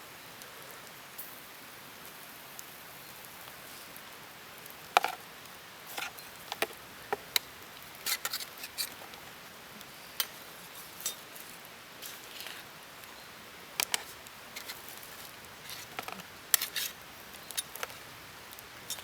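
Scattered sharp clicks and light clinks, some in quick clusters, beginning about five seconds in, over a faint steady hiss.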